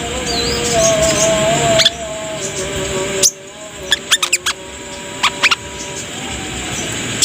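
Brown-throated sunbird (kolibri kelapa) song from a bird-lure recording: high, thin notes with a burst of quick sharp chirps in the middle, over a hissy background. The track changes abruptly a few times.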